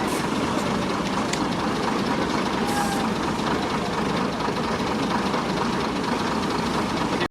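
Train running with a steady rumble.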